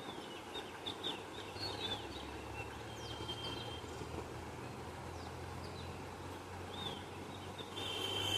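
Wild birds calling: a scatter of short chirps and quick rising and falling whistles, one whistle held for about half a second around three seconds in, and a louder, harsher call near the end. A low steady hum runs underneath.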